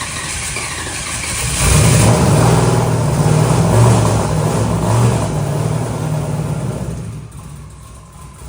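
Twin-turbo NASCAR truck's engine being cranked on the starter, then catching about a second and a half in and running unevenly with some revving, dropping away near the end. It sounds fairly quiet for a race engine because its turbos and exhaust are mounted at the rear.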